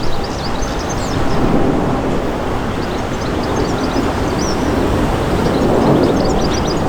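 A train running past with a steady rumble, while birds chirp in short high notes above it.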